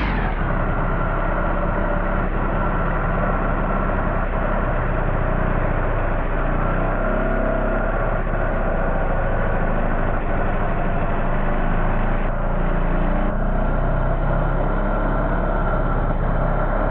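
A small petrol engine running steadily at a low, even speed, with no revving.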